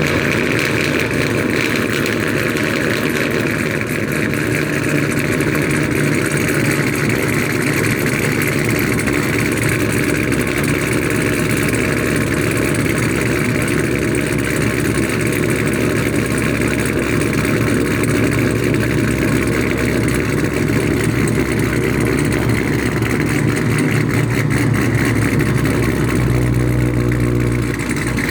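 Chevrolet Camaro SS V8 with a BTR Stage 2 cam idling just after a cold start, exhaust straight-piped through long-tube headers with no cats or mufflers. The sound is a steady, pulsing idle, and the note shifts slightly near the end.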